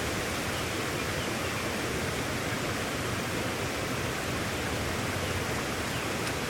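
Steady hiss of a brisk rainstorm, an even wash of falling rain with no breaks.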